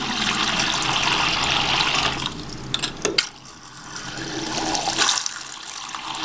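Faucet running at strong flow through a new aerator, fitted to replace one clogged with mineral deposits. The rush of water eases about two seconds in, a couple of sharp clicks come near three seconds, and the flow builds up again.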